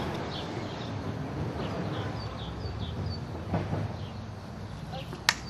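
A small bird singing a run of short, falling chirps, a few a second, over steady outdoor background noise, with a sharp click near the end.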